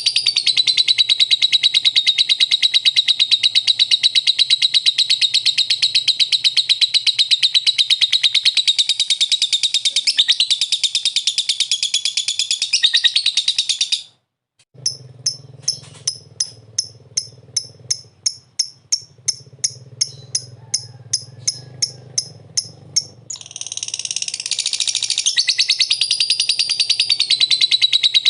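Lovebird giving its 'ngekek', a long, very fast, unbroken chattering trill. It breaks off about halfway, followed by some eight seconds of separate short chirps, about three a second, over a low hum. Then the long trill starts again near the end.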